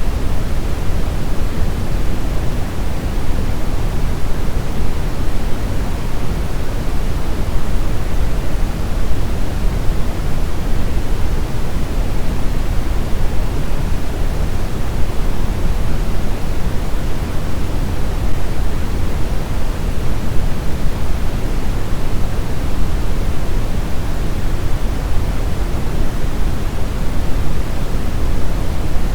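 Steady brown noise: an even, unbroken rushing hiss, heaviest in the deep low end and falling away toward the highs, with no events or changes.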